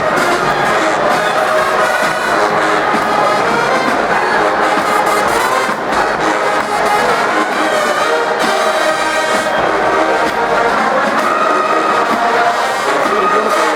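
Marching band brass playing loud and steady, trombones and trumpets holding sustained notes together without a break.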